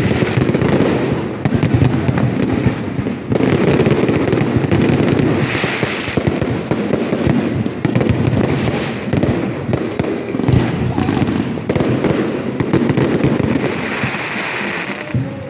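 Fireworks display: a dense, continuous run of bangs and crackles, with a strong bang about ten and a half seconds in.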